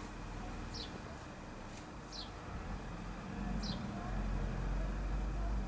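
A bird calling with four short, high, falling chirps about a second and a half apart, over a low rumble that swells about halfway through.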